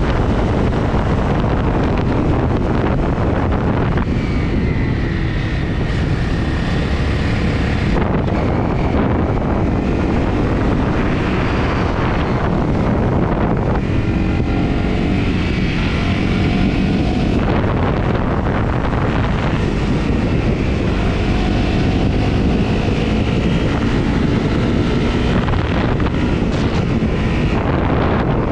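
Wind rushing over the microphone on a moving Honda CRF250 motorcycle, with the bike's single-cylinder four-stroke engine running underneath. The wind eases a few times, about four seconds in, mid-way and later on, and the engine's note comes through more clearly, rising and falling a little.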